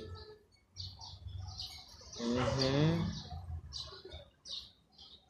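Small birds chirping repeatedly in short high notes. About two seconds in, a louder drawn-out call rises slightly in pitch, lasting about a second.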